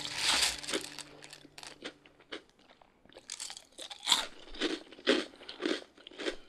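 A person chewing crunchy food close to the microphone, with sharp crunches about two a second. A low held tone fades out in the first couple of seconds.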